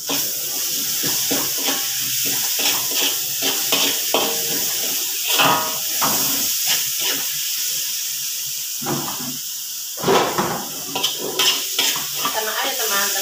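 Food sizzling in a hot two-handled wok, with a spatula scraping and knocking against the metal as it is stirred. The sizzle jumps up loud right at the start.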